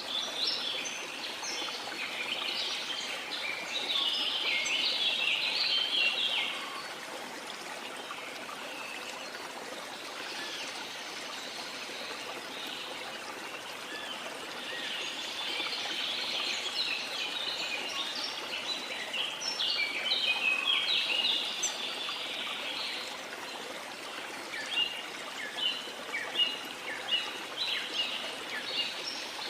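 Steady rush of a waterfall with tropical rainforest birds singing over it in bouts, including a run of quick, repeated chirps near the end.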